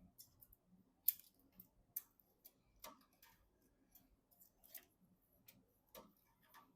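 Light, irregular clicks and taps of small plastic and metal parts being handled during a PC build, about two a second, the loudest about a second in.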